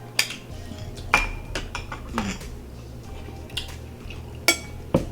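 Plates and cutlery clinking and knocking during a meal: a handful of sharp, irregular clicks, a second or so apart.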